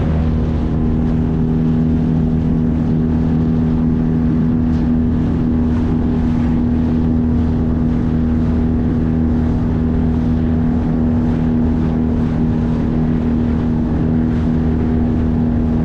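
9.8 HP outboard motor running steadily at high throttle, pushing a small boat at about 15 mph, with wind and water rushing past.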